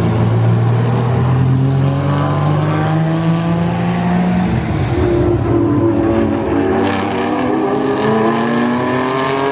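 Car engines running as cars drive slowly past. One engine's note rises gently for the first four seconds or so; then other engines take over about five seconds in, their pitch climbing as they gather a little speed.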